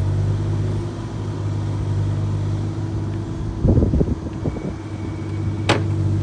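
An engine running steadily with a low, even hum. About halfway through there is a second of irregular clattering knocks, and a single sharp click comes near the end.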